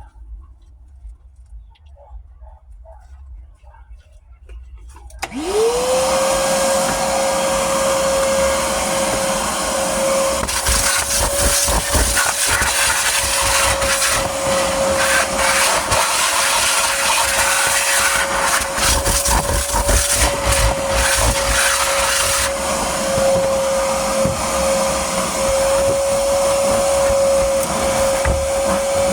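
Vacuum cleaner switched on about five seconds in: its motor spins up to a steady whine and runs with a loud rush of suction, the hiss brightening and easing as the nozzle works over the car's interior.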